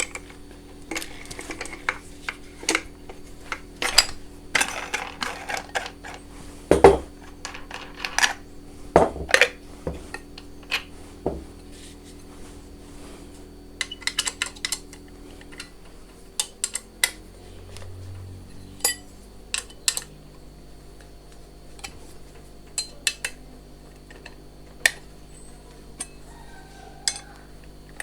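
Scattered clicks and metallic clinks of a Bosch GWS 750 angle grinder's parts and accessories being handled and fitted by hand, over a faint steady hum. The grinder is not switched on.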